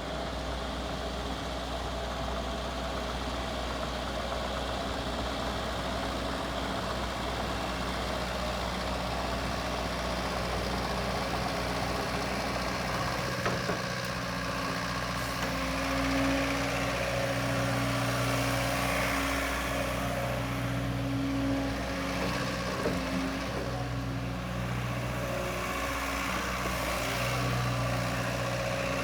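JCB 85Z-1 midi excavator's diesel engine running steadily, with its low hum swelling and easing a few times in the second half.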